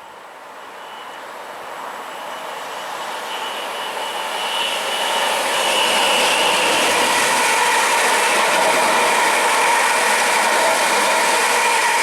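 A train approaching on the main line, growing louder over about six seconds and then passing at a steady level, with a faint high ringing tone in the middle.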